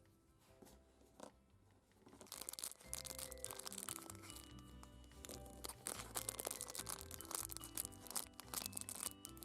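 Packaging crinkling and tearing as a capsule toy is unwrapped, with dense crackles starting about two seconds in. Soft background music with a light melody plays throughout.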